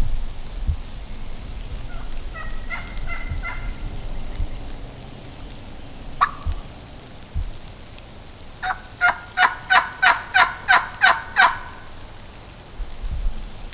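Wild turkey hen yelping close by: a few faint yelps, then a single note, then a loud run of about ten evenly spaced yelps, about three a second.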